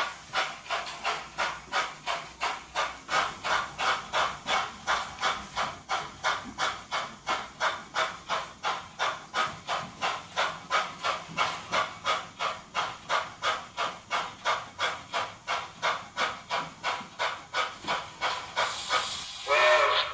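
Sound-equipped model consolidation (2-8-0) steam locomotive chuffing steadily at about two and a half chuffs a second as it pulls away from the depot, with a louder burst of steam near the end.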